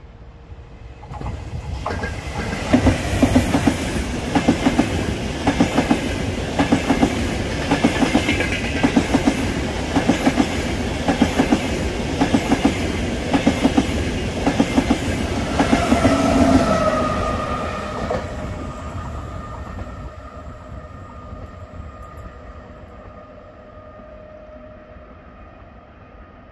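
Trenitalia Frecciarossa high-speed electric train running through the station. Its wheels give a steady rhythmic clickety-clack over the rail joints for about fifteen seconds, loudest near the end of the pass. The sound then fades away as the train recedes, leaving a faint whine that drops slightly in pitch.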